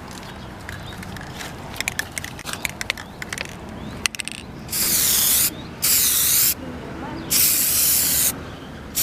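Aerosol spray paint can: a scatter of sharp clicks and rattles, then about halfway through three short hissing sprays of paint, each under a second long, with brief gaps between.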